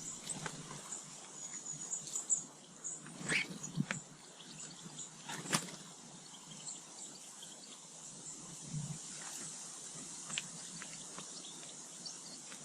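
Garden birds calling faintly in short, high chirps, with a few sharp taps.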